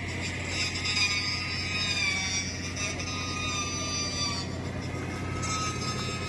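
Motorboat engine running steadily, a continuous low hum, with a higher whine that drifts down in pitch and fades about four seconds in.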